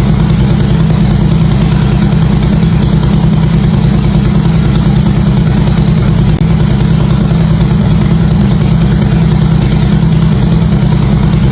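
Harley-Davidson V-twin engine idling through its exhaust with a steady, even rumble, holding one speed with no revving.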